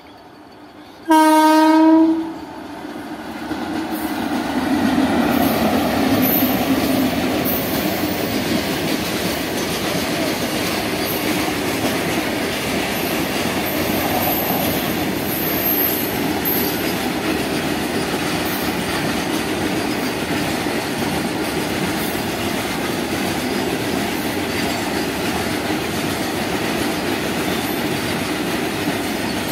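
A locomotive horn sounds one loud blast about a second long, about a second in. Then a high-speed freight train of covered wagons passes, a steady noise of wheels clattering over the rails.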